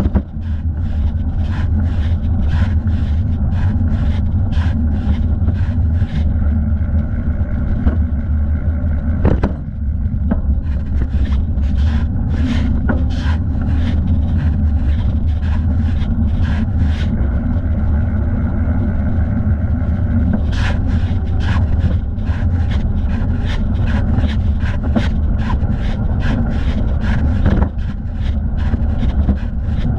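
Bicycle riding heard from a thigh-mounted camera: a steady low rumble of wind and rolling noise with a regular tick about twice a second, which pauses for a few seconds past the middle.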